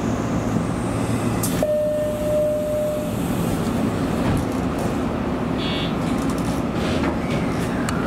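Steady interior noise in the driver's cab of a Nishitetsu commuter train as it pulls slowly away from a station. A brief steady tone, like a beep, sounds for about a second and a half starting about one and a half seconds in.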